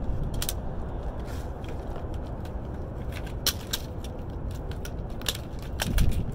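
Scrap metal being handled: scattered light metallic clinks and clicks, a dozen or so, over a steady low rumble.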